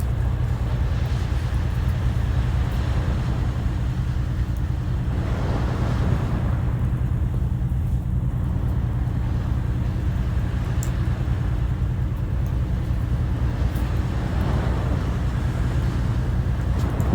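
Sea waves washing ashore, two slow swells of surf, over a steady low rumble of wind on the microphone.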